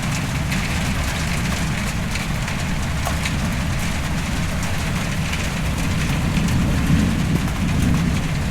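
Heavy rain pouring down steadily, with a low rumble underneath and scattered faint ticks of drops.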